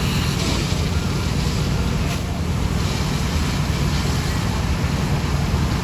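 Steady low engine rumble, unbroken, with a hiss of noise above it.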